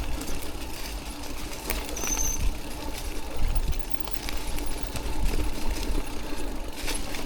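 Electric mountain bike ridden over a rough, wet trail: a steady motor hum with frequent rattles, clicks and knocks from the bike over the ground, and a low rumble of wind on the microphone.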